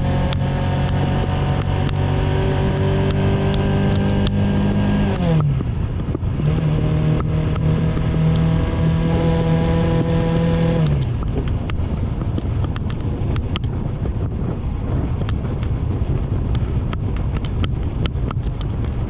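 AKT GP 180 motorcycle engine running at a steady pitch. The pitch drops sharply about five seconds in, steadies, then drops again near the middle, after which the engine fades under wind buffeting on the microphone and road rumble.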